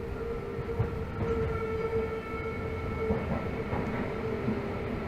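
Tokyo Metro 13000 series subway train running, recorded from inside the car: a steady rumble of the wheels on the rails, with a steady whine from the traction motors and their drive held over it.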